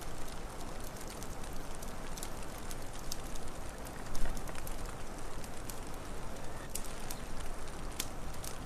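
Wood fire crackling, with scattered sharp pops and one louder low knock about four seconds in, over a steady low rumble and hiss.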